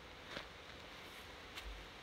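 Two faint, short knocks over a steady low hiss, one about a third of a second in and one near the end.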